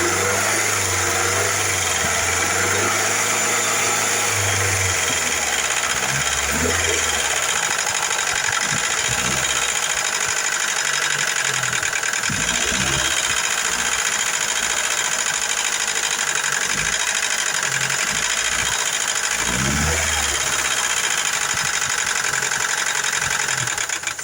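Car engine running steadily at idle. The engine is one whose hydraulic lifters tick.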